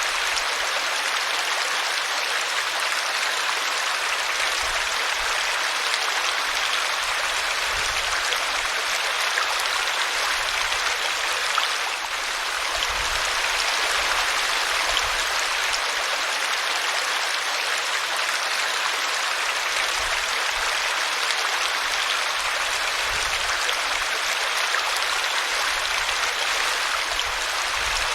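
A small brook running and splashing over a tree root: a steady rush of flowing water.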